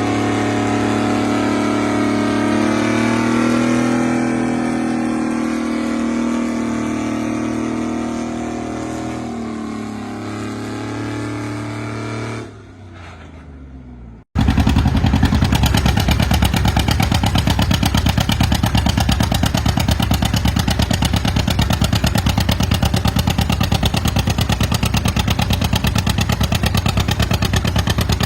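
Antique tractor engine working hard under load, its pitch rising and falling for about twelve seconds before it dies away. About fourteen seconds in, after an abrupt cut, another tractor engine is heard close up, running loud with rapid, even exhaust pulses.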